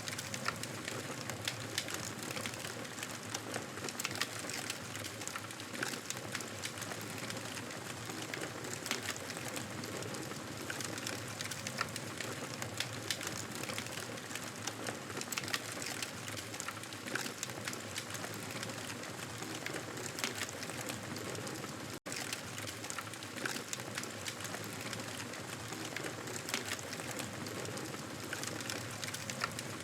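Campfire crackling: a steady hiss with frequent small, sharp pops and snaps, cutting out for an instant about two-thirds of the way through.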